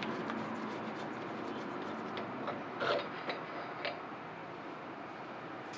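Small metal clicks and light knocks of a carburettor being taken apart as its float bowl comes off. They come in a short cluster in the middle, the loudest about three seconds in.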